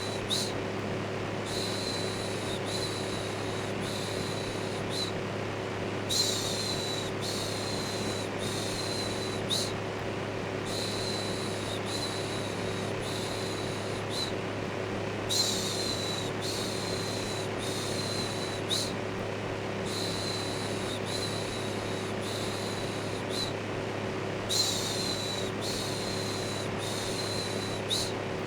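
Electric fan running steadily with a low hum, overlaid by a repeated human "shhh" shushing: short shushes of under a second each, coming in runs with brief pauses between them.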